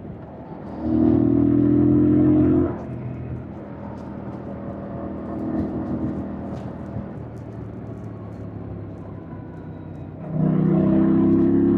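2025 Yamaha MT-07's parallel-twin engine running under throttle for about two seconds, then dropping to a much quieter off-throttle sound for about seven seconds, then back under throttle near the end. The pitch holds steady in each loud stretch.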